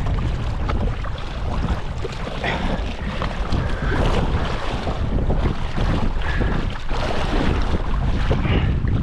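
Strong wind buffeting the microphone over the rushing and splashing of water along a 29er sailing dinghy's hull as it sails fast in heavy wind.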